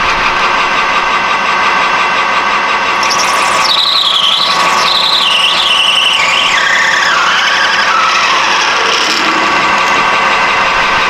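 Metal lathe running while a cutting tool trues up aluminum-and-Delrin stock, the tool squealing as it cuts. The squeal starts about three seconds in, wavers, falls steadily in pitch and fades out near the end.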